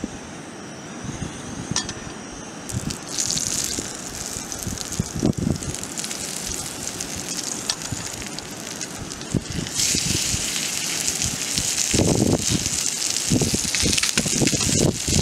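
Sliced garlic sizzling in hot oil in a small frying pan on a gas camp stove. The sizzle starts about three seconds in and grows louder around ten seconds in, with low rumbling bursts near the end.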